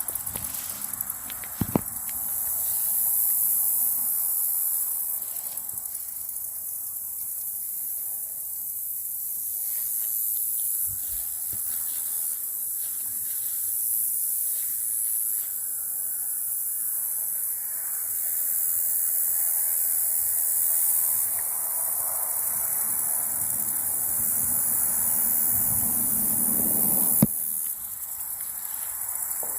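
Steady high-pitched chorus of late-summer insects, with the irregular crunch and rustle of footsteps through woodland litter beneath it and a sharp click near the end.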